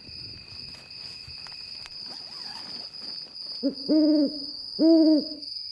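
An owl hooting, a short hoot then two longer ones, over the steady high chirring of crickets at night.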